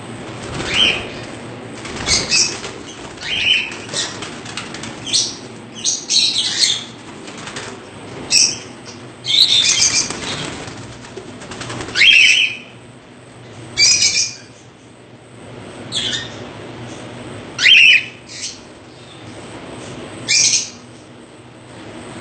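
Caged pet birds fluttering and calling: short, sharp bursts about every one to two seconds.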